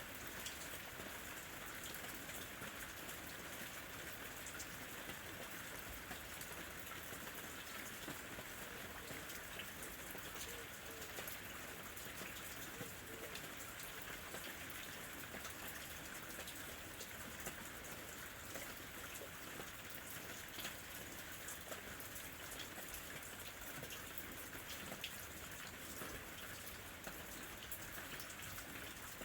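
Steady rain falling, with many small drops pattering on leaves and surfaces.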